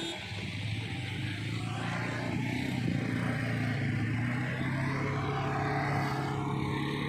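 Engine running steadily, with a low, even hum.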